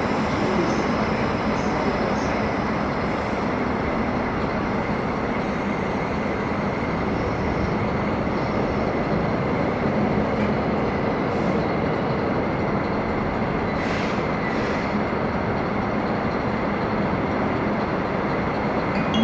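Train rolling along the tracks: a steady rumble of wheels on rail, with a faint high squeal from the wheels.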